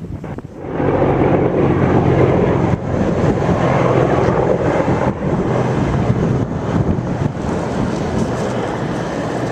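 A large engine running close by, coming up loudly about a second in and then holding a steady low drone.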